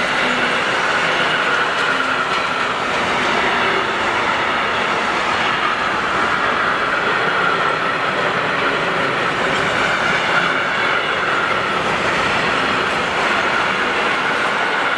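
Freight train of sliding-wall wagons hauled by two class 186 electric locomotives rolling past, making steady wheel-on-rail noise.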